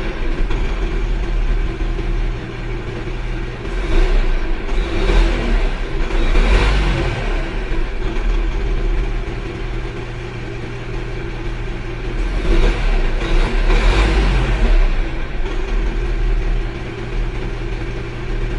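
Vehicle engine running steadily with a low hum, revving up in several short swells about four, five and six and a half seconds in and again around twelve to fourteen seconds in.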